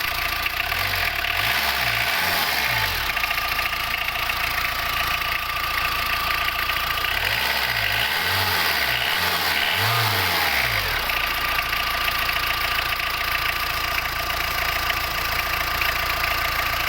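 Tata Indigo TDI diesel engine running steadily, its low note swinging up and down for a couple of seconds twice.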